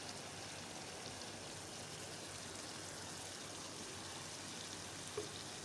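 Steady, even sizzle of chicken, potatoes and masala frying in oil and ghee in a kadhai.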